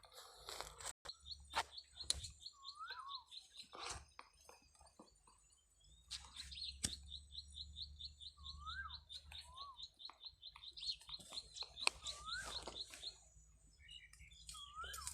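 Faint birdsong: a short rising-and-falling whistle repeated every few seconds, alongside a fast, high ticking trill of about seven notes a second that stops and starts. Scattered sharp clicks come through as well.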